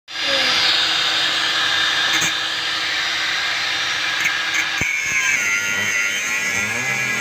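Electric hand tool, like a power drill, running steadily, with a click about five seconds in after which its pitch changes.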